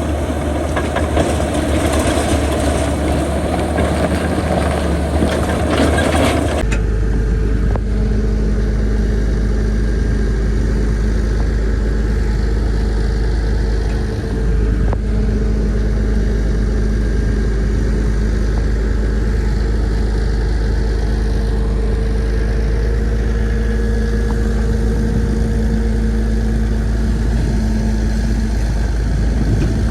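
Heavy diesel earthmoving machinery running steadily. About six and a half seconds in the sound changes abruptly to a steadier, deeper engine drone with a faint whine over it.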